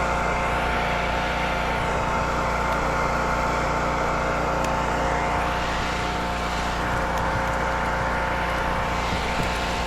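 An engine running at a steady speed, an unchanging drone.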